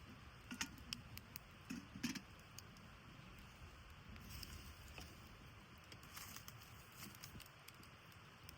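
A few light clicks and low knocks in the first couple of seconds, then faint scattered rustling, over a quiet steady background hiss.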